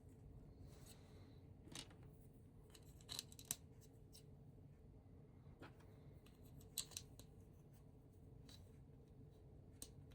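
Old LEGO plastic bricks clicking as they are handled and pressed together: a handful of short, sharp clicks scattered over a quiet room hum.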